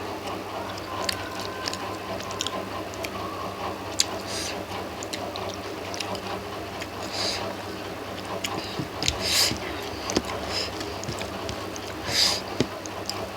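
Close-up eating sounds: chewing and wet lip smacks with scattered small clicks and squelches as rice with prawns is eaten, over a steady low hum.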